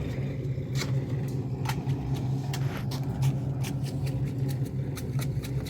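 An engine running steadily at a constant speed, with scattered short clicks and knocks over it.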